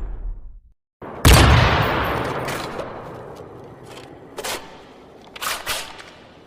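Gunshot sound effect: one loud, booming shot with a long echoing tail that slowly fades, followed by about four quieter sharp clicks.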